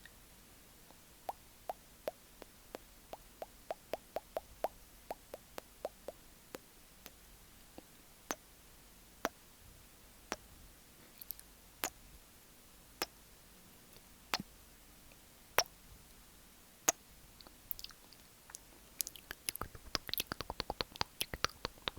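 Close-miked ASMR mouth sounds: sharp, wet tongue and lip clicks. They come in a run at first, then one at a time about a second apart, and quicken into a rapid flurry near the end.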